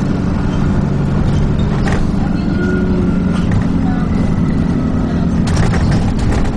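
Dennis Trident 2 double-decker bus engine running steadily on the move, heard on board, with a few short rattles and knocks from the body.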